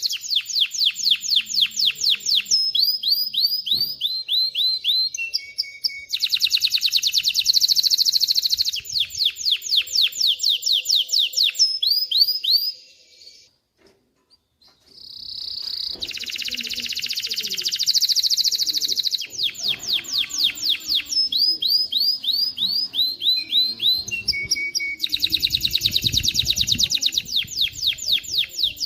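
Male canary singing: fast strings of identical repeated notes, each string changing to a new phrase every few seconds, some made of quick falling sweeps. The song breaks off for about two seconds near the middle, then resumes.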